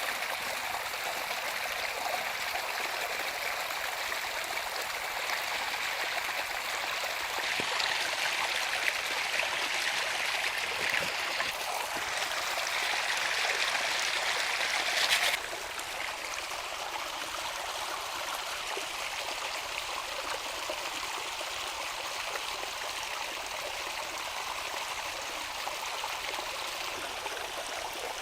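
Running water, a steady rushing and splashing while food is washed; it grows louder for several seconds and then drops suddenly about halfway through.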